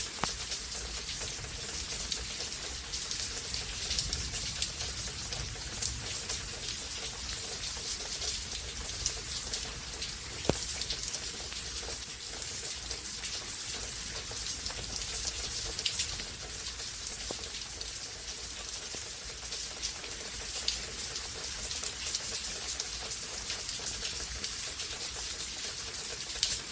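Rainstorm: an even hiss of rain falling, with scattered sharp drop hits close by, the loudest about ten seconds in.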